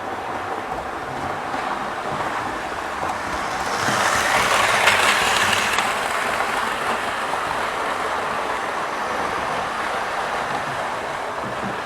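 OO gauge model train running along the track, its wheels and motor making a steady rattling hiss that swells about four seconds in as it passes close, then settles back.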